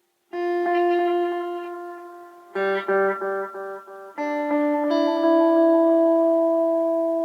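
Clean electric guitar played through a Blue Dragonfly analog delay pedal: a chord rings out about a third of a second in, a few short notes repeat in quick succession around the middle, then another chord sustains and slowly fades.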